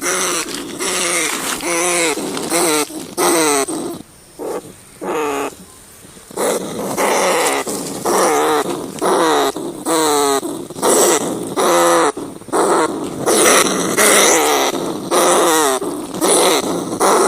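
Rats squealing: a string of short, quavering cries, about one or two a second, with a brief lull about four seconds in.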